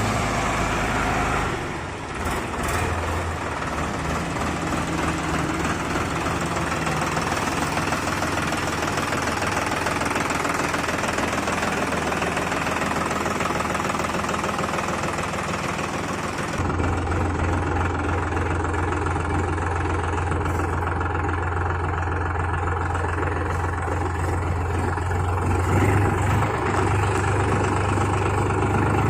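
Solis Yanmar 4215 tractor's three-cylinder diesel engine running steadily. About two-thirds of the way through, the sound changes to a deeper, stronger drone with less hiss on top.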